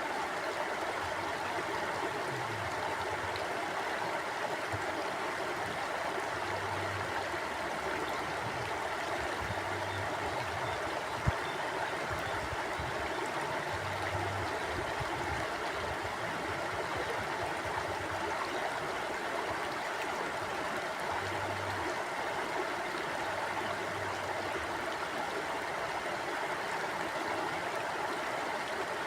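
Mountain stream flowing steadily, an even rushing of water. A single sharp click comes about eleven seconds in.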